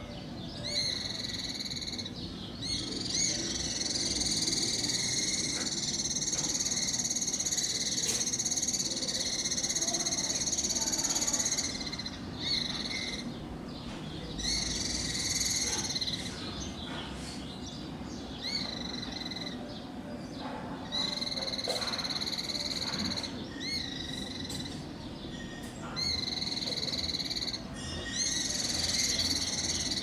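Fledgling cliff flycatchers giving hungry begging calls: a high, steady trilled call in repeated bouts, one of them running for about nine seconds without a break.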